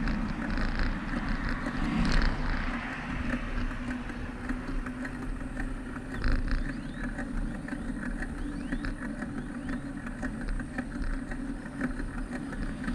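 Steady street and traffic noise heard from a moving bicycle, with a low hum and scattered light clicks.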